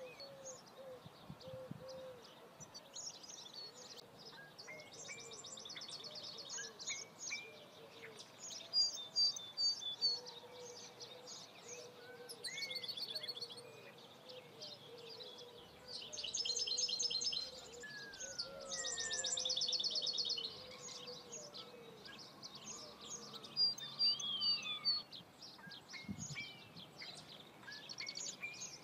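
Several songbirds singing together: short chirps, whistled glides and rapid trills, with louder trill passages coming and going.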